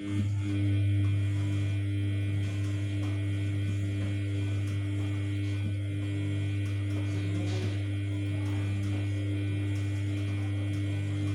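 Samsung P1271 washing machine giving off a steady electric mains hum mid-wash, switching on abruptly and cutting off just as abruptly about eleven seconds later, typical of its drain pump or water valve running.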